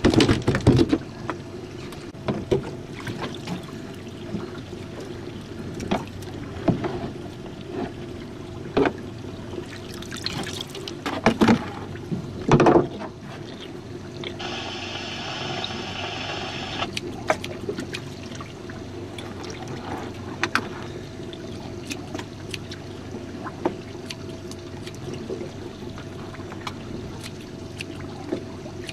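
Water trickling and splashing around a small jon boat on the open sea, with scattered knocks and clicks of gear against the boat over a steady low hum. About halfway through comes a two-to-three-second hiss.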